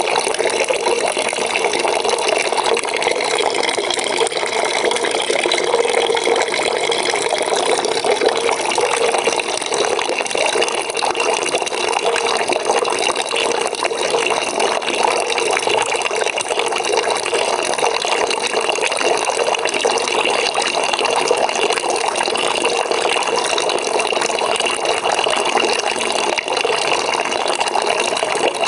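Water pouring steadily into a bucket as it fills.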